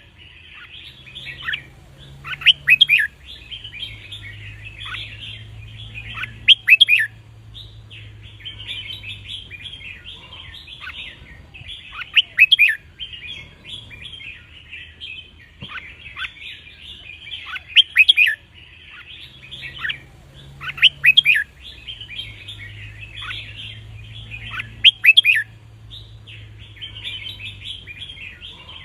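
Red-whiskered bulbuls singing: a continuous busy chatter of chirps, broken every few seconds by a loud burst of short, sharp song phrases.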